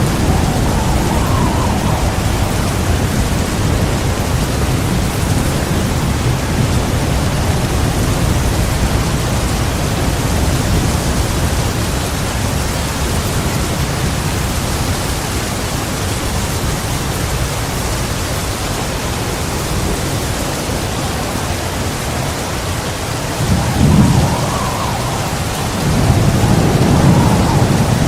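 Steady heavy rain with low rolling thunder, the rumble fading after the first dozen seconds and then two short louder thunder rumbles near the end.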